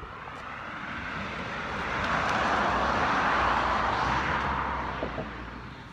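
A road vehicle passing by: its tyre and engine noise swells over about two seconds, is loudest in the middle, and fades away near the end.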